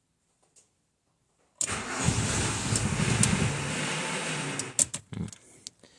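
Starter cranking the VW T4's 2.5-litre five-cylinder ACU petrol engine for about three seconds, starting about a second and a half in, without the engine catching, then a few short clicks. It will not start because it has choked after the engine control unit was briefly fed a false hot-engine reading, which the owner says it takes a while to recover from.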